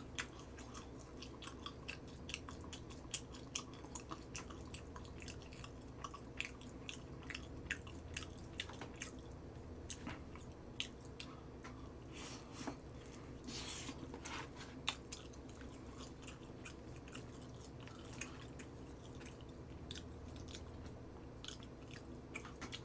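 A person chewing and biting into crispy fried chicken close to the microphone: faint, irregular crunchy clicks of mouth noise, denser about two thirds of the way through.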